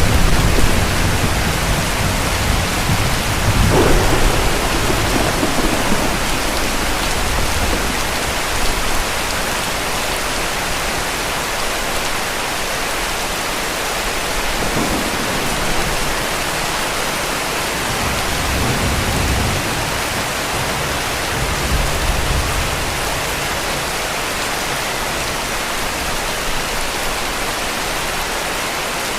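Heavy rain falling steadily, a dense even hiss. Low rolls of distant thunder rumble at the start and about four seconds in, with fainter rumbles around the middle.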